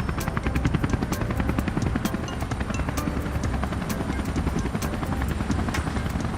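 Helicopter rotor chopping steadily in a fast, even rhythm.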